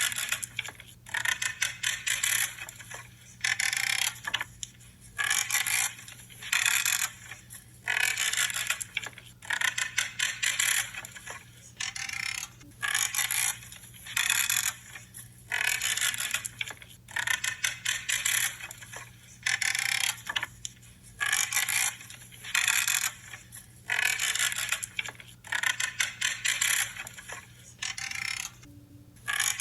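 Pruning shears cutting through branches again and again: a crunchy, creaking snip roughly once a second as the blades close through the wood.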